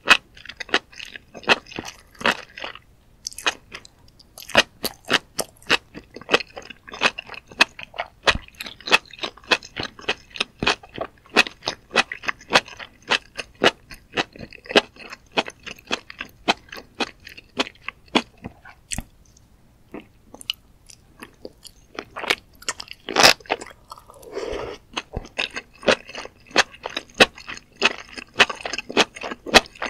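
Close-miked chewing of mushrooms in spicy red sauce: a dense, continuous run of crisp, wet crunching clicks, with a short lull about two-thirds of the way through.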